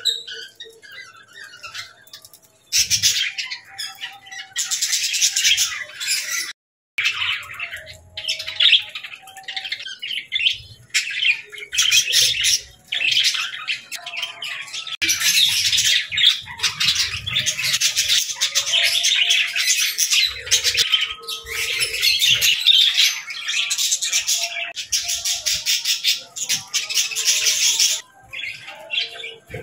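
A flock of budgerigars chattering and chirping in a dense, busy warble of quick squawks and tweets, broken by a brief gap of silence a little under seven seconds in.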